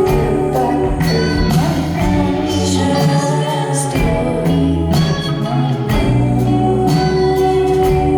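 Live band playing a song: steady drum hits under sustained chords and bass, with a voice singing over the music.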